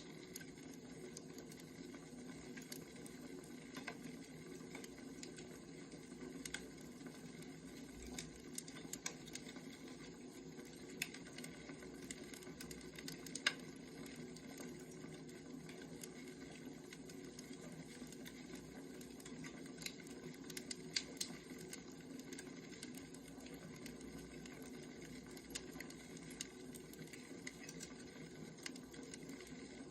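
Faint crackling of a wood fire: a steady low hiss with scattered sharp pops and snaps.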